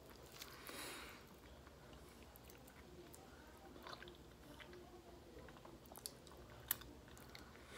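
Faint chewing of a mouthful of rice, beans and chicken eaten by hand, with a few soft clicks in the second half.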